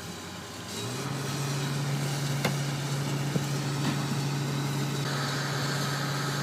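Crane engine running, rising to a higher steady speed about a second in as the crane works the sailboat on its lifting bands. A few sharp clicks or knocks sound over it.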